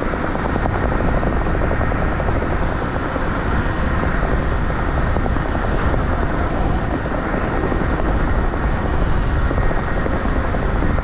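Steady, loud wind rumble on the microphone with tyre and road noise from an electric scooter being ridden.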